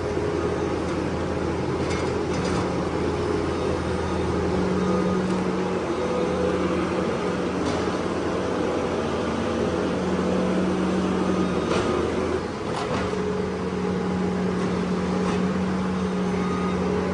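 Engine of a farm machine running steadily, its pitch rising and falling a little as it works, with a few short knocks and rattles.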